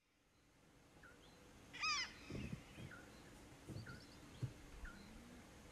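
Birds calling at dawn: a short chirp repeated about once a second, and one loud, harsh call about two seconds in. A few soft low thumps.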